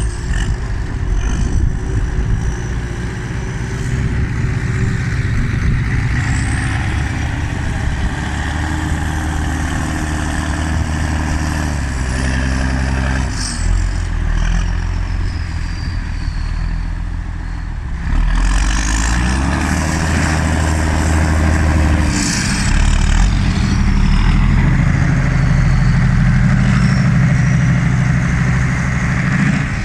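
Straight-piped Massey Ferguson tractor engines, the 1155's V8 and the 6290's turbocharged six-cylinder, running hard while rolling silage. Their note rises and falls as they drive back and forth, with a high turbo-like whistle gliding over it, and it gets louder about 18 seconds in.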